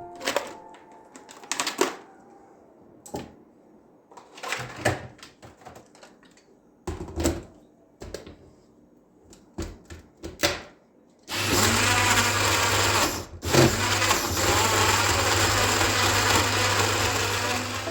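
Scattered clicks and knocks of kitchen utensils being handled, then an electric blender switched on, running loudly and steadily for about six seconds with one brief stop shortly after it starts.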